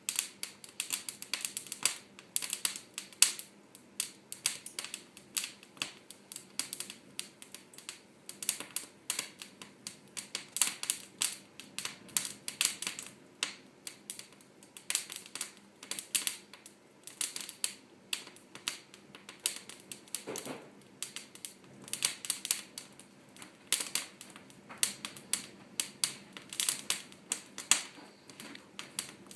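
Wood fire crackling in a fireplace: irregular sharp pops and snaps, several a second, over a faint low hiss of the flames.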